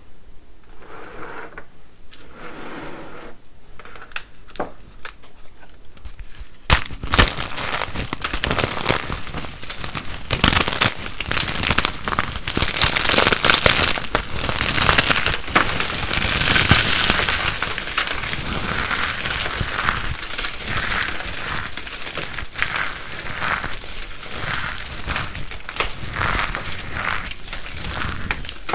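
Dry soap being crunched and crackled, dense and continuous from about seven seconds in, after a few faint, quieter crunches.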